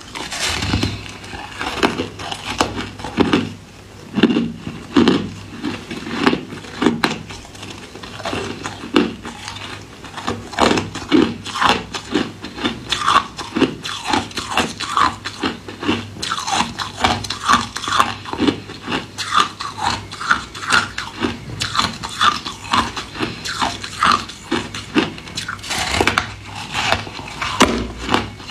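Ice being bitten and chewed close to the microphone: a steady run of crisp crunches, a few a second.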